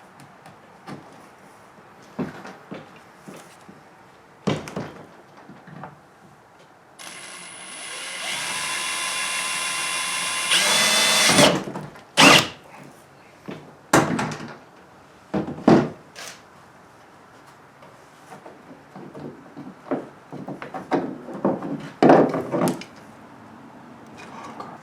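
Cordless drill whirring steadily for about four seconds and speeding up just before it stops, most likely drilling a pilot hole for the rod holder's rivets. Sharp clicks and knocks come before and after it.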